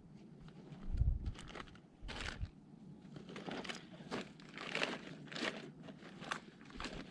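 Irregular crunching and rustling: a string of short scrapes about every half second to second, with a couple of dull low thumps near the start.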